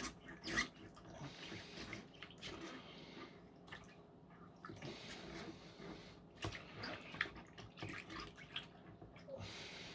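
Water sloshing with irregular drips and small splashes as a vacuum cleaner filter is worked by hand in a bowl of hot soapy water.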